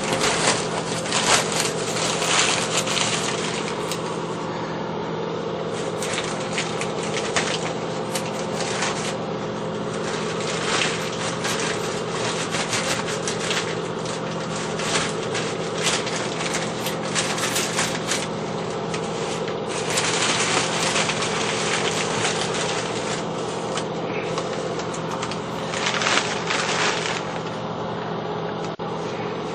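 Rust being scraped and rubbed off a washing machine's sheet-metal top by hand, in irregular strokes, over a steady low hum.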